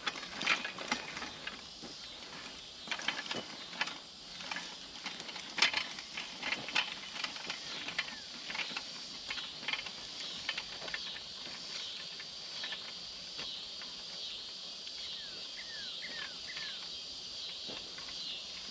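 Push garden seeder clicking and rattling irregularly as it is rolled down a row, dropping sweet corn seed into hard, untilled ground. In the second half the clicks thin out and a regular high chirp, about twice a second, carries on.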